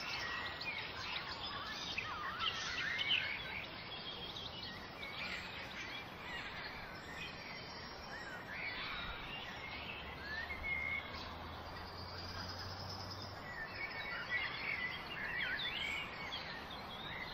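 Several birds chirping and singing, many short quick calls over a steady background hiss.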